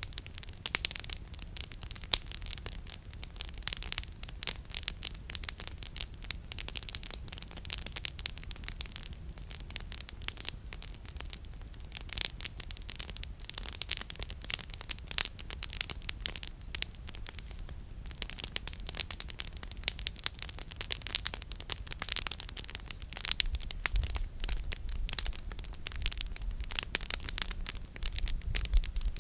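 Campfire burning, its firewood crackling in a dense, irregular stream of small snaps and pops over a low steady rumble.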